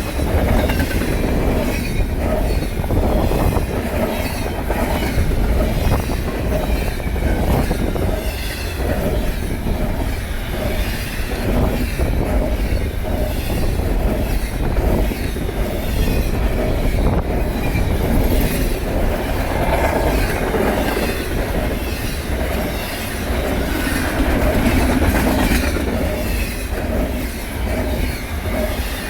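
Freight train of intermodal cars rolling past, steel wheels clicking over rail joints above a continuous rumble.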